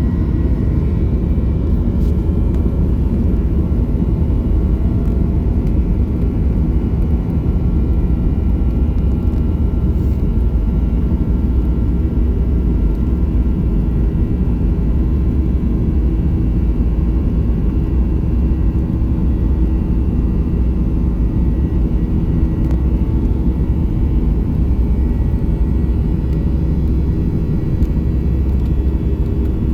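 Boeing 737-800 cabin noise in flight: a steady low drone of the CFM56 jet engines and rushing airflow, with a few faint steady tones above it and no change throughout.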